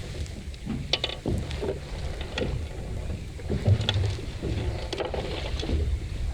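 Strong wind buffeting the microphone on a small boat in 20–25 knot gusts, a steady rumble, with a few sharp taps and knocks scattered through it.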